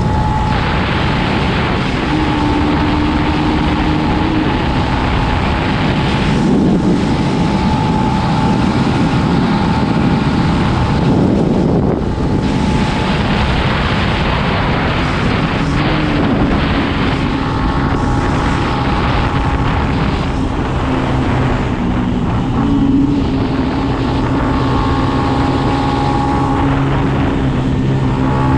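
Dirt bike engine running while being ridden, its pitch shifting up and down with the throttle, with wind buffeting the microphone.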